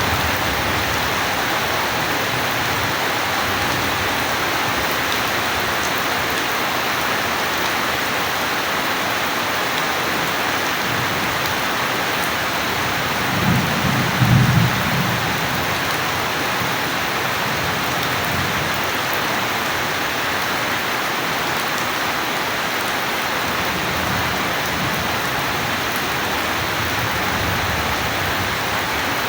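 Steady rain, with one short low rumble of thunder about halfway through.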